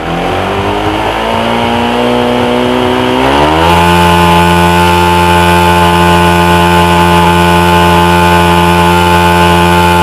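Motorcycle engine revved under throttle: it climbs in pitch over the first three seconds or so, then is held steady at high revs. The throttle is held to test the charging voltage from the magneto coil and regulator-rectifier with the headlight on.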